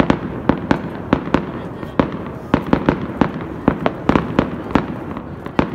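Fireworks and firecrackers going off all around: a rapid, irregular string of sharp bangs, about two or three a second, over a constant din of more distant bangs.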